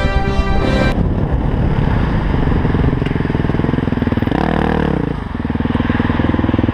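Yamaha WR450F supermoto's single-cylinder four-stroke engine running at low revs while the bike is ridden slowly. The revs dip and pick up again about two-thirds of the way through. Background music cuts off about a second in.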